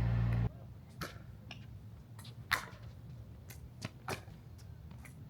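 Pickleball paddles hitting a plastic ball: a few sharp pops at uneven intervals, the loudest about two and a half seconds in. A low steady hum cuts off half a second in.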